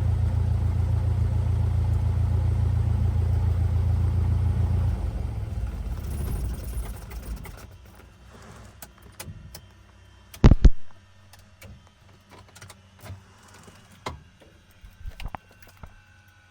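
Cessna 172R's four-cylinder Lycoming engine idling, then shutting down about five seconds in, the engine and propeller winding down to a stop over a couple of seconds. Afterwards scattered small clicks and one sharp knock about ten seconds in, as the cockpit is secured.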